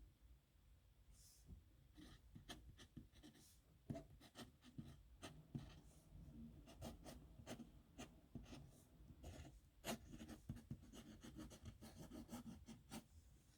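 Faint sound of a pen writing on paper: a quick run of short scratching strokes and light taps, as a signature is written out by hand.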